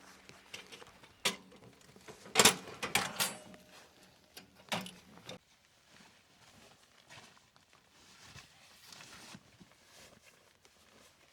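Several sharp knocks and clicks, loudest in a quick cluster about two and a half to three seconds in and with one more near five seconds, over a faint steady hiss.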